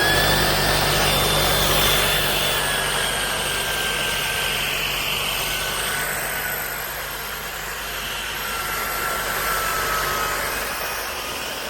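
Shark DuoClean Detect cordless stick vacuum running in regular mode: a steady motor whine over an airflow roar, the whine drifting slowly lower in pitch. The brushroll is pushing styrofoam pieces around rather than sucking them up.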